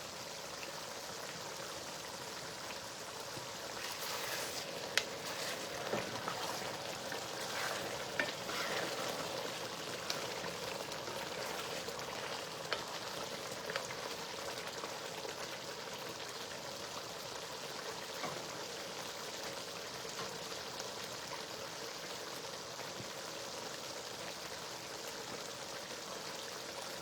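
A pot of stew cooking in red palm oil, sizzling with a steady hiss. A few light clicks and knocks come between about 4 and 14 seconds in.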